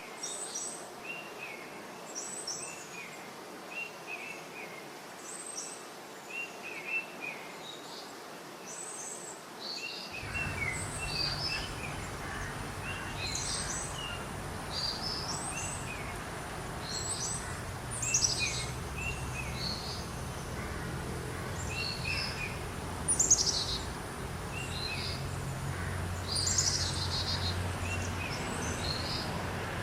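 Several birds chirping and calling in short, repeated notes, some of them high and sliding down in pitch. About ten seconds in, a steady low background rumble comes in beneath the calls.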